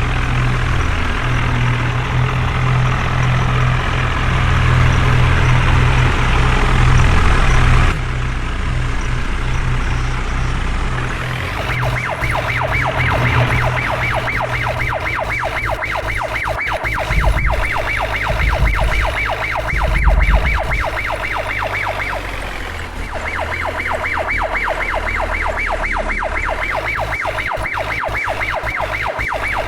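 A heavy diesel engine runs with a steady low drone that cuts off suddenly about eight seconds in. From about twelve seconds a fast-pulsing, siren-like warbling horn or alarm beeps about seven times a second over engine rumble, with a short break near twenty-two seconds.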